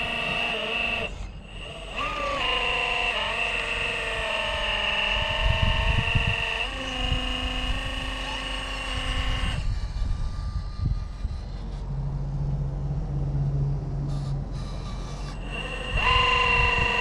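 Electric motor and gear whine of a radio-controlled scale crawler, changing pitch and cutting in and out with the throttle, over low wind buffeting on the microphone. The whine stops for a few seconds past the middle and comes back near the end.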